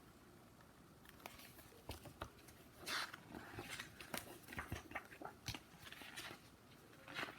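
Faint, irregular clicks and rustles of a picture book being handled, with a page being turned about three seconds in.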